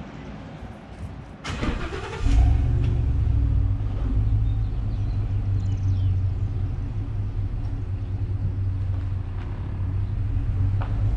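A vehicle engine being started: a brief crank, then it catches about two seconds in and settles into a steady idle.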